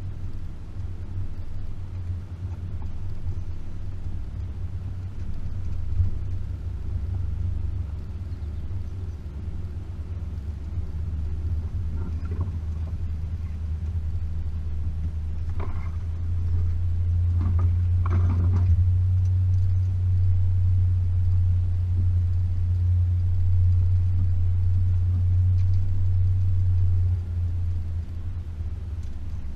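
Range Rover P38's 4.0 V8 engine running as the truck drives along, a steady low drone that grows louder about halfway through and eases off near the end. A few short noises break in over it in the middle.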